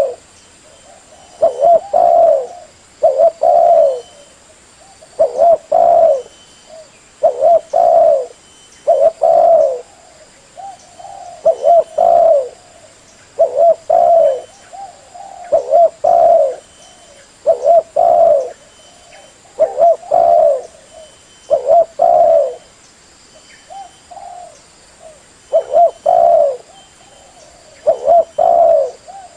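Spotted dove (tekukur) cooing over and over, a phrase of two or three soft coos about every two seconds.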